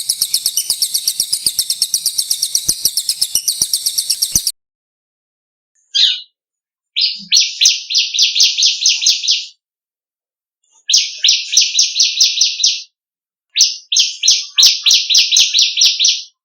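Small songbird singing rapid, pulsed trills: one high, fast trill that stops about four seconds in, then after a brief note three shorter, lower trilled phrases of about two seconds each, with dead-silent gaps between them.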